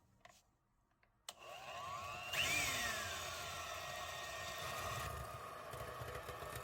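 A small electric kitchen appliance motor, such as a hand mixer, switched on about a second in and running steadily, its pitch briefly shifting as it comes up to speed.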